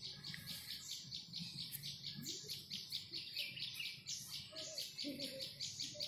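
Small birds chirping in a rapid, even series of short high chirps, several a second.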